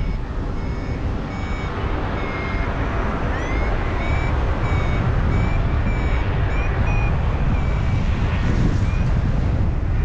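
Wind rushing on the microphone in flight, with a paragliding variometer beeping in short high tones about twice a second, a few sliding upward in pitch: the climb tone that signals the glider is rising in lift.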